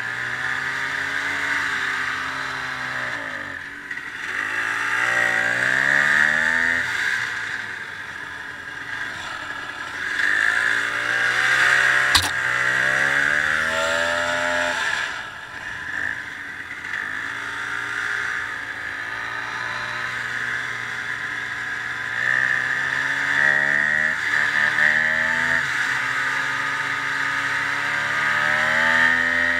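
Ski-Doo snowmobile engine running under way, its pitch rising and falling again and again as the throttle is opened and eased off, over a steady high rushing noise. One sharp click comes about twelve seconds in.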